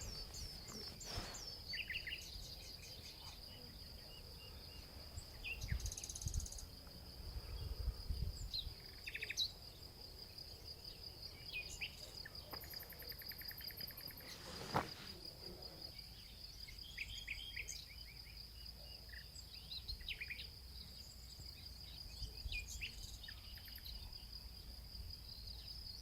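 An insect trills steadily on one high note throughout, with scattered short bird chirps over it. Some low rumbles come a few seconds in, and there is a single sharp click about halfway through.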